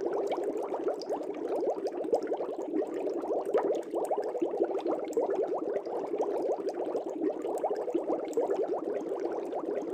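Aquarium air bubbles bubbling steadily in the tank water, a dense, unbroken stream of many small overlapping bubble sounds.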